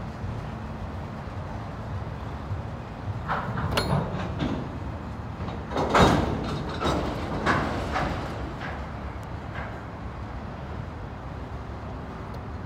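Freight train of autorack cars rolling past, a steady rumble of wheels on rail. Several sharp metallic noises break through between about three and nine seconds in, the loudest around six seconds.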